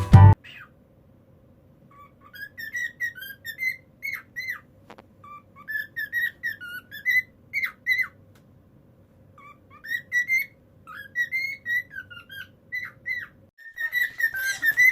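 Cockatiel whistling and chirping: short gliding whistled notes strung into phrases with pauses between them, over a faint steady hum. Near the end the notes are louder and denser.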